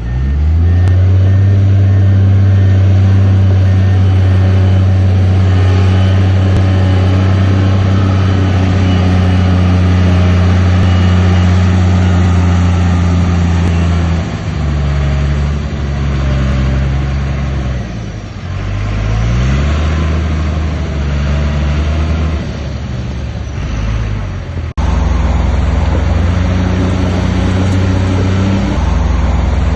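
Diesel engine of heavy earthmoving machinery running loud and steady, then its pitch falling and rising several times as it is throttled down and revved up again about halfway through. The sound breaks off abruptly for an instant about 25 seconds in and carries on steady.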